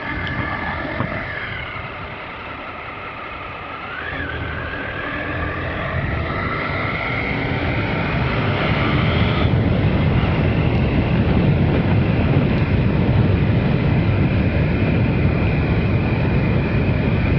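Triumph Sprint RS's 955 cc three-cylinder engine accelerating under way, its pitch rising steadily and then dropping suddenly at a gear change about halfway through, then holding steady. A loud rush of wind and road noise grows with the speed.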